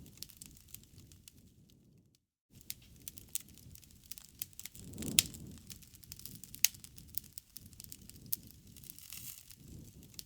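Wood fire burning, crackling and popping with sharp snaps over a low rustle, the loudest pops about five and six and a half seconds in. The sound drops out briefly a little after two seconds.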